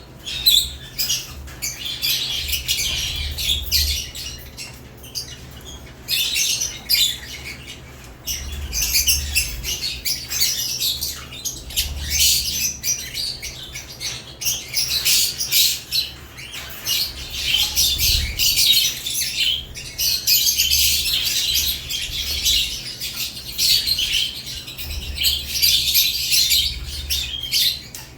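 Caged lovebirds chirping and chattering almost without pause, with short gaps and some low thumps from the cage.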